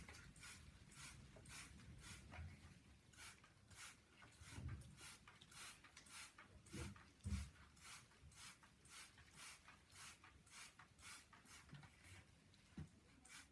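Faint, evenly repeated hissing strokes about twice a second, like a hand spray bottle being squeezed to mist the birds, with a few soft thumps.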